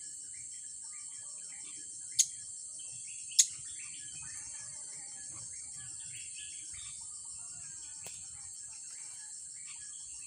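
Short, scattered chirps of blue-crowned hanging parrots (serindit) over a steady, pulsing, high-pitched insect drone. Two sharp, loud snaps about a second apart come a couple of seconds in.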